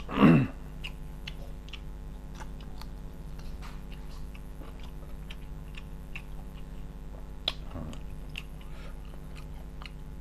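Close-miked chewing of a mouthful of soft rice and curry, with small wet mouth clicks throughout and a sharp click about seven and a half seconds in. A short loud burst of noise comes right at the start, and a steady low electrical hum runs underneath.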